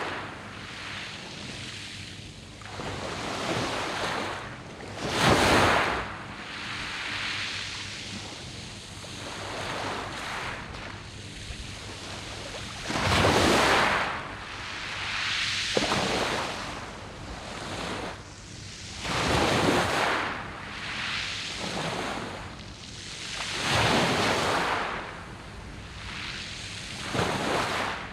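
Sea waves washing up a beach of round pebbles, a hissing surge every two to three seconds, the loudest about five and thirteen seconds in.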